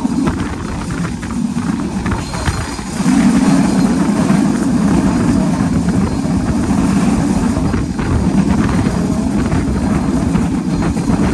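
Rumble of a passenger coach running at speed on the track, heard from inside through an open window, with wind buffeting and faint wheel clicks. It grows louder about three seconds in.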